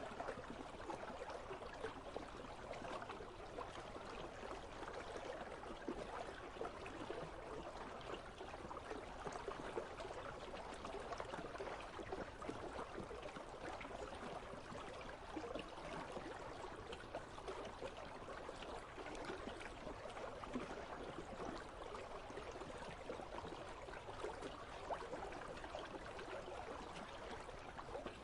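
River water running and trickling steadily, with a constant gurgling babble.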